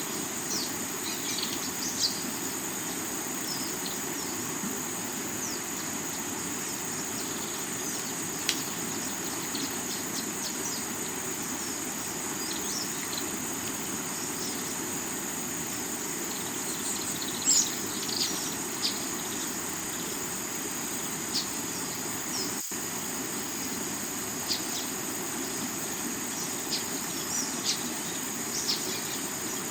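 Steady rushing of water over the rocks of a river, under a continuous high-pitched drone of crickets and scattered short bird chirps. The whole sound cuts out for an instant about two-thirds of the way through.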